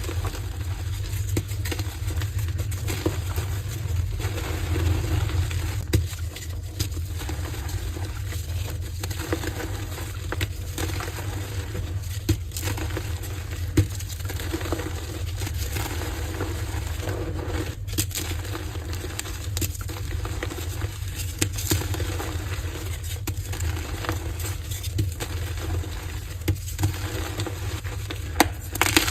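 Heart-shaped blocks of gym chalk being crushed and crumbled, a continuous soft crunching and crackling with a few sharper cracks scattered through, over a steady low hum.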